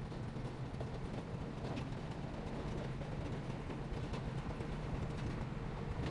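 Heavy diesel earthmoving machinery running steadily, with faint scattered clanks over the engine drone.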